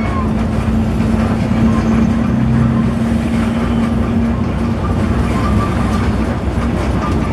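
Steady engine and road noise of a moving intercity bus, with a low engine tone that fades after about four seconds.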